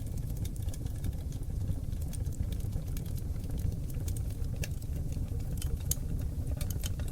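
Wood fire of oak logs burning in a fireplace: a steady low rumble of flame with scattered crackles and pops, a few sharper pops in the second half.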